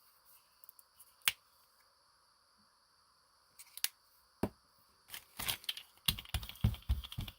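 A few sharp isolated clicks, then from about five seconds in, rapid irregular tapping as paint is dabbed on during gel printing.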